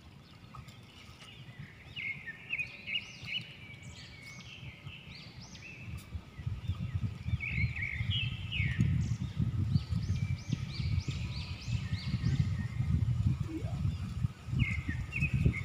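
Small birds chirping in several bursts of quick, short rising notes, over a low rumble that grows louder about six seconds in.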